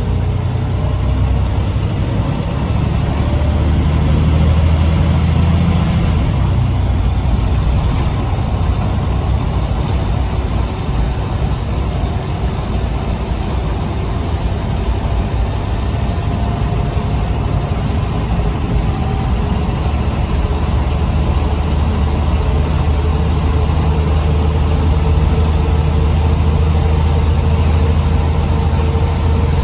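Scania CN94UB OmniCity bus's diesel engine running under way with its ZF automatic gearbox: a steady low rumble with a rising pitch over the first few seconds, easing slightly in the middle and building again later.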